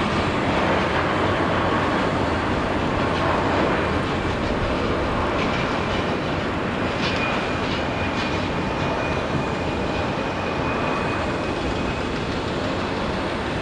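Jet airliner engines running with a steady, loud roar, and a high turbine whine coming in about five seconds in.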